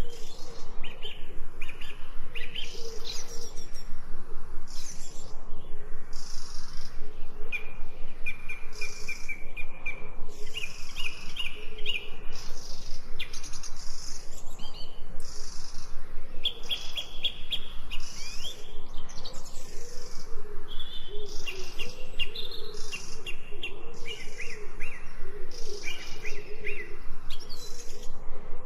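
A chorus of several birds chirping and singing together without a break, with repeated short trills among the calls.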